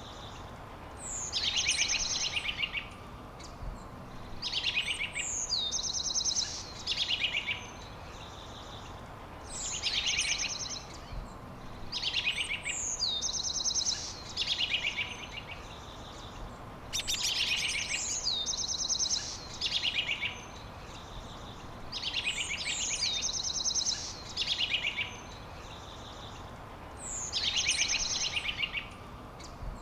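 A songbird singing the same phrase over and over, about every three seconds: a rapid high trill ending in a downward-sliding whistle. Steady background hiss underneath.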